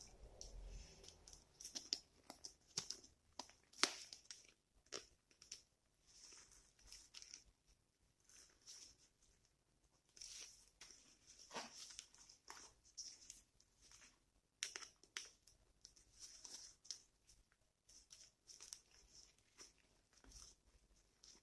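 Faint, irregular clicks, snaps and scraping rustles of pliers gripping and bending iron wire into a loop.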